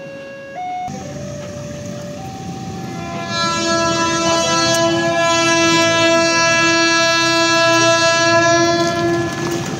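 A level-crossing warning alarm alternates between two tones. About three seconds in, a diesel locomotive's horn takes over with one long, loud blast of about six seconds, over the running noise of the train.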